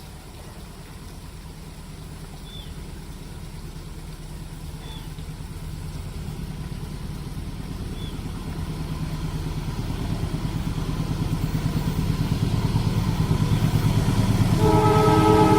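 Diesel locomotive approaching, its low engine rumble growing steadily louder, then its horn sounding in a steady multi-note blast near the end.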